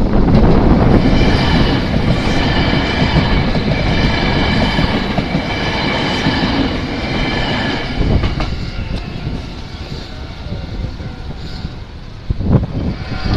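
Semboku Liner train passing close at speed: a loud rumble of wheels on rail with high-pitched steady tones over it. It fades after about eight seconds.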